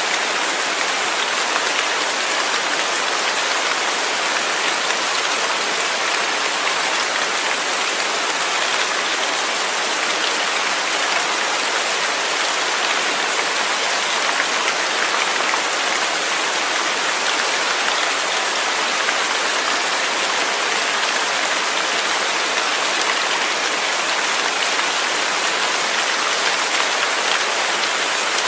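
Steady, heavy rain falling and pattering on a surface, an even continuous hiss of many drops with no let-up.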